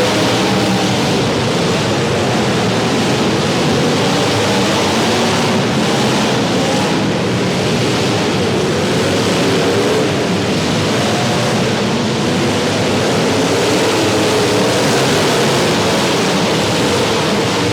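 Several demolition derby car engines running and revving together in a loud, steady din, their pitches wavering up and down over one another.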